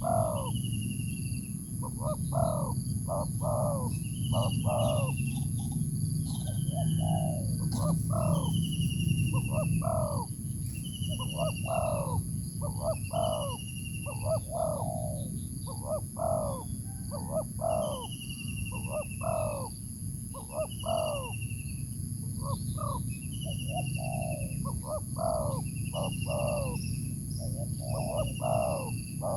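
Birds calling in a steady repeated pattern: a short falling whistle about every second and a half, alternating with quick clusters of lower notes, over a steady low hum.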